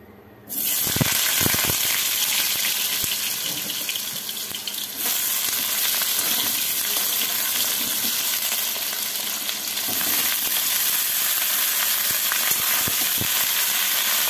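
Potato chunks and steamed cauliflower florets frying in hot mustard oil in a steel kadai. A steady sizzle starts suddenly about half a second in as they hit the oil, with a few knocks of the spatula against the pan as they are turned.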